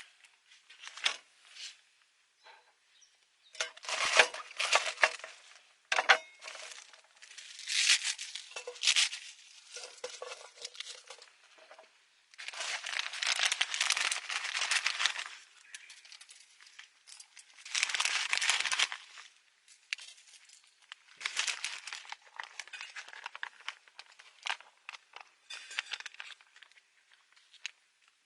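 Crinkling and rustling of packaging being handled in irregular bursts, the longest about a second apart and lasting a couple of seconds each.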